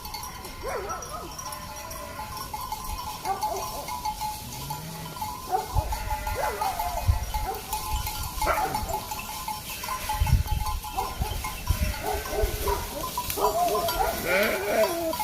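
Small livestock bleating: short, wavering calls come irregularly and crowd together near the end, with low rumbling thumps under them.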